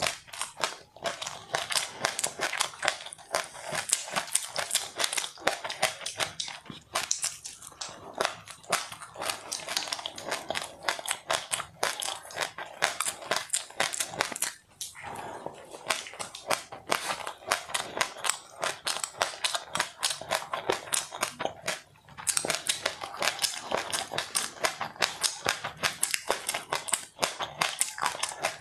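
Close-up crunchy chewing of crisp, dry seed food: a rapid, continuous crackle of bites and chews, with brief pauses about halfway through and again about 22 seconds in.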